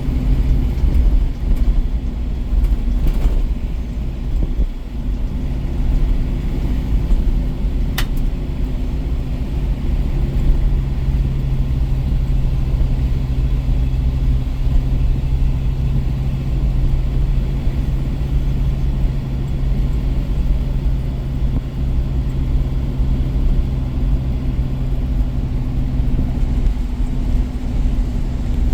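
1973 International Harvester Scout II running at a steady pace on a drive, its engine hum and low road rumble holding even, with a single sharp click about eight seconds in.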